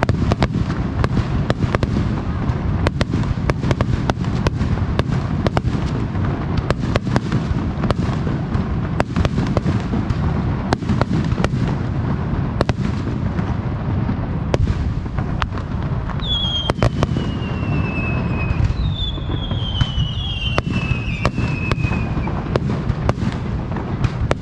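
Fireworks display with shells bursting in quick succession, a rapid run of sharp reports over a continuous low rumble. In the second half, a few whistling tones sound, each sliding downward in pitch.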